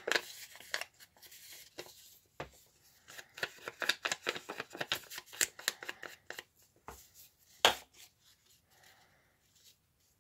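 Paper being handled and edged with ink: a run of quick dabbing taps and paper rustles, busiest in the middle, with one louder knock on the table near the end.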